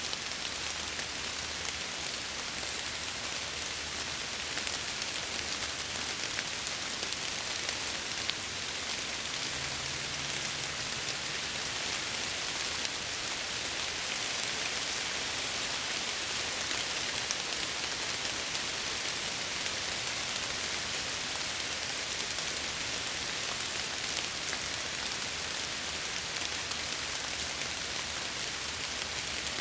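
Steady rain falling against window glass: an even hiss with many fine drop ticks throughout.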